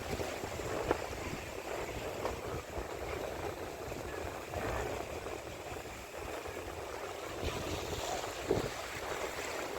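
Wind buffeting the microphone over the wash of sea surf, with a couple of brief knocks about a second in and near the end.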